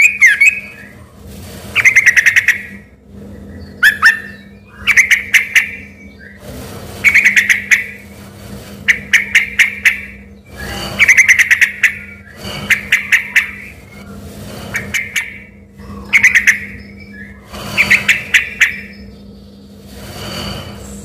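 Yellow-vented bulbul (trucukan) singing vigorously: short bursts of quick, bright notes, one phrase about every two seconds, falling silent near the end.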